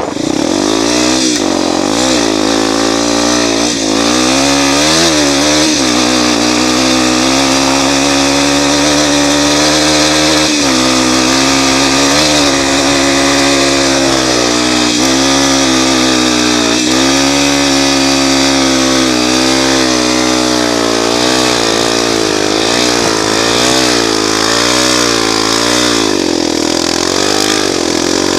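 Honda Tornado 250's single-cylinder four-stroke engine, fitted with an aftermarket exhaust, running hard under load climbing sand, its revs rising and falling repeatedly with a few brief sharp dips. The engine makes a noise that the owner puts down to the connecting rod.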